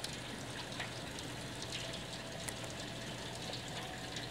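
Steady heavy rain falling, an even hiss with scattered light ticks of drops.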